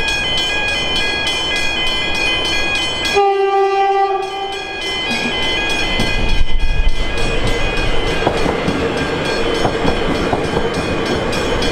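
Siemens Nexas electric suburban train sounds a single horn blast of about a second and a half a little over three seconds in, then passes close by with a heavy rumble and wheel clicks on the track. Level-crossing bells ring in a steady pulsing rhythm throughout.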